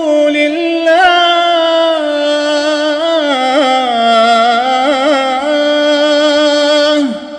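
A man's voice reciting the Quran in melodic tajweed style, holding one long ornamented note. It steps down in pitch about three seconds in, wavers in quick trills, then falls away and fades near the end.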